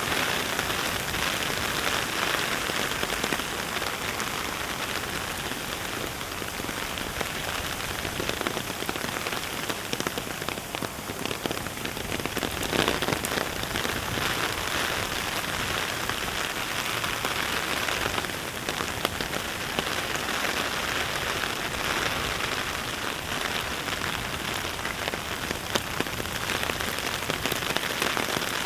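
Steady heavy rain falling: a dense, even patter of many drops.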